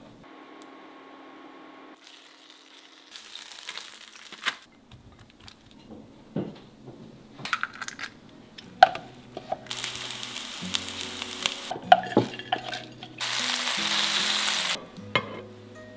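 Stuffed chicken breasts sizzling in a frying pan, in several spells with the loudest near the end, with light clicks and scrapes of utensils in between. Soft background music plays underneath.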